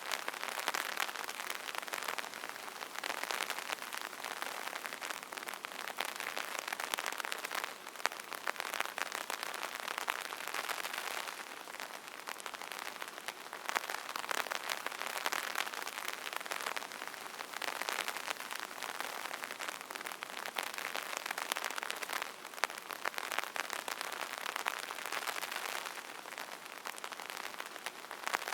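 Steady rain falling on a surface, heard as a dense crackle of many separate drop hits with little low rumble, swelling and easing slightly every few seconds.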